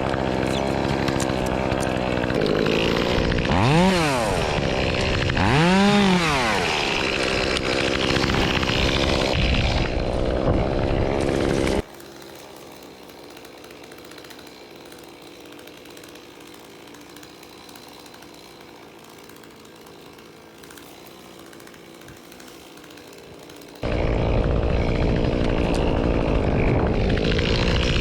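Echo CS-2511T small two-stroke top-handle chainsaw running and cutting, revving up and back down twice. About twelve seconds in the saw sound cuts off abruptly to a much quieter steady background noise. About twelve seconds later it comes back just as suddenly and revs again near the end.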